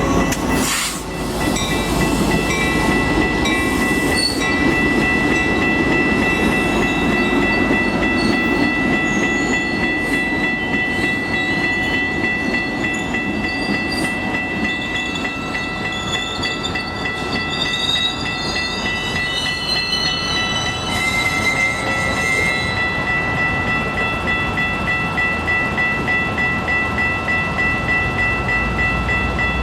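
A train running past on the tracks with a steady rumble, heavier in the first half, over steady high-pitched tones, and shorter wavering squeals in the middle.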